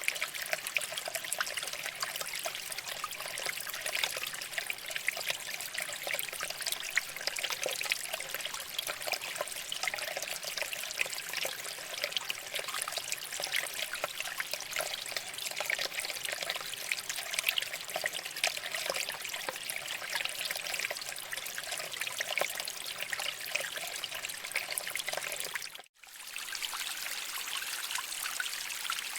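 Shallow water flowing and trickling over rocks, a steady bubbling, splashing babble. About three-quarters of the way through it cuts out for a moment and resumes.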